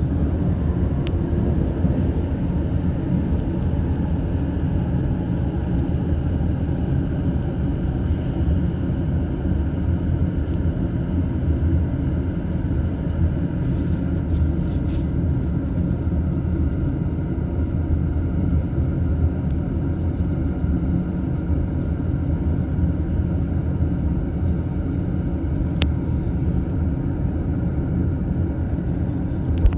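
Interior running noise of a JR East E233-series train heard from inside its double-deck Green car: a steady low rumble of wheels on rails at cruising speed, with one sharp click near the end.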